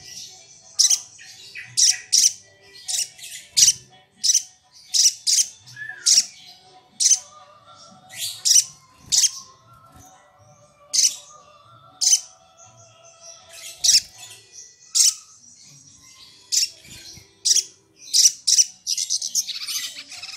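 Sogok ontong (sogon) bird calling: a long series of short, sharp, high-pitched call notes, about one or two a second, breaking into a rapid chatter near the end.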